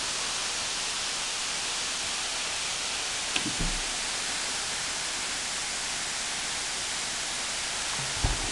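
Waterfall's steady rushing hiss of falling water, with two brief low thumps, one about a third of the way in and one near the end.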